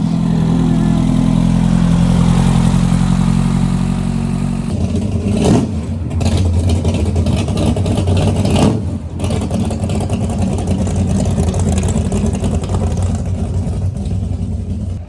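A loud car engine running with a steady, low pitched rumble. The note changes about five seconds in, and there are two brief loud bursts a few seconds apart.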